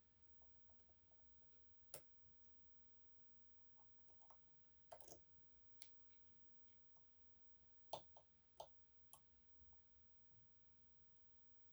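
Faint, scattered metallic clicks and ticks of a short hook working the sliders of an EVVA 3KS high-security lock under tension, as it is being picked. The sharpest clicks come about two seconds in and again about eight seconds in.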